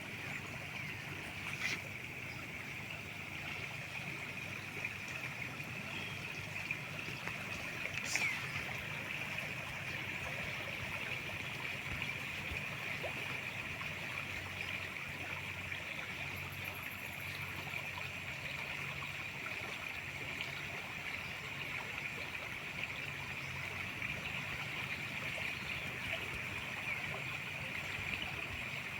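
River water flowing steadily, under a constant high-pitched hum, with a couple of brief clicks in the first third.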